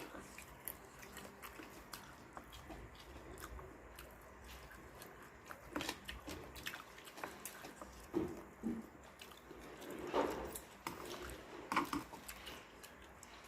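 Close-up chewing and wet mouth sounds of someone eating a spicy seafood salad. Scattered small clicks run throughout, with a few louder smacks in the second half.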